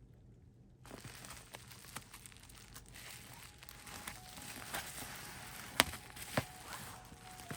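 Packaging being handled during an unboxing, crinkling and rustling with small clicks, and two sharp knocks a little over halfway through.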